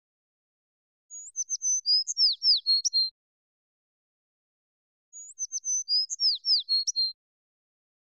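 A songbird's short song, high chirps and quick downslurred whistles, heard twice: the same two-second phrase, once about a second in and again about four seconds later.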